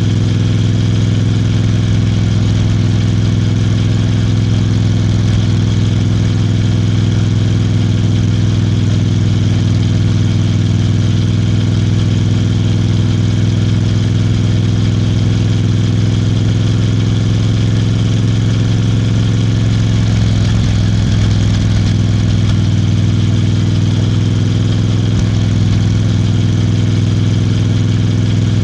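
Royal Enfield Bear 650's 648 cc parallel-twin engine and exhaust running at a steady, even pace while riding, the note wavering briefly about twenty seconds in.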